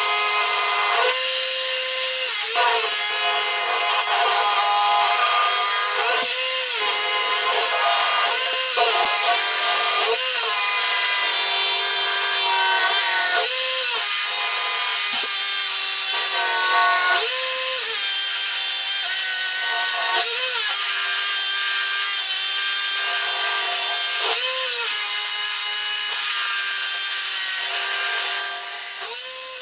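Electric rotary hammer drill boring holes into old, hard concrete, running steadily under load. Its motor pitch rises briefly every few seconds as the load eases, and the sound drops in level near the end.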